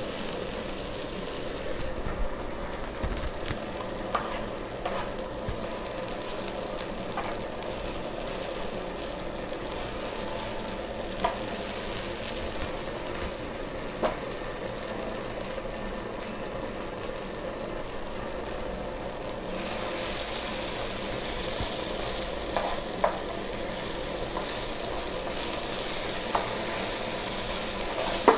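Ground chili-garlic sambal sizzling as it sautés in a little oil in a wok over medium heat, cooking until fragrant. Short clicks from stirring against the pan come now and then. The sizzle gets louder about two-thirds of the way through.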